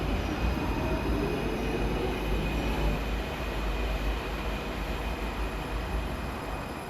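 Santiago Metro AS-02 train running between stations: a loud low rumble with a whine that rises in pitch over the first few seconds and a few steady high tones above it.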